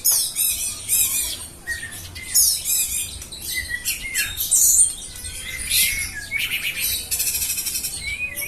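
Songbird singing a dense, varied song of high whistles, fast trills and harsh chattering notes, one phrase after another with almost no pause.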